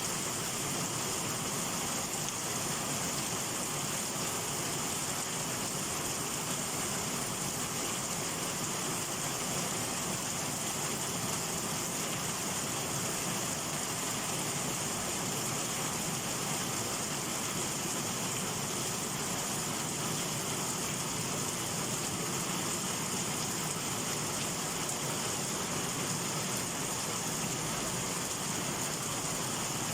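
Heavy summer rain falling steadily, an even hiss of a downpour with no thunder.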